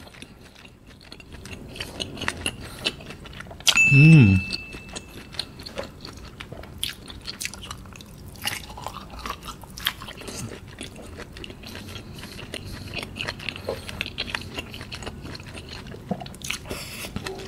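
Close-miked chewing of a thick grilled squid coated in chili sauce: soft, wet mouth sounds with many small clicks and smacks. About four seconds in there is a short hummed voice sound, the loudest moment.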